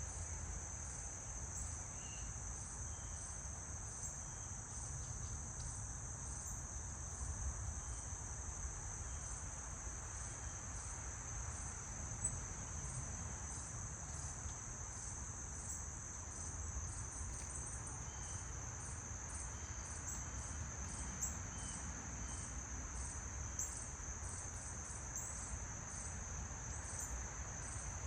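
Insects, likely crickets, trilling in a steady, unbroken high-pitched chorus, with a low rumble underneath and a few faint short chirps.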